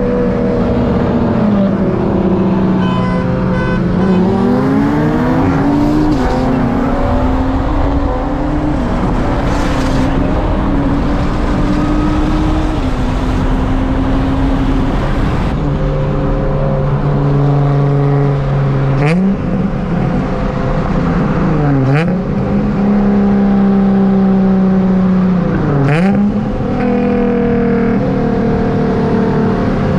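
Car engine pulling hard at full throttle, its pitch climbing and then dropping sharply at three gear shifts in the second half. Before that the engine runs more evenly, with a few rises and falls in revs.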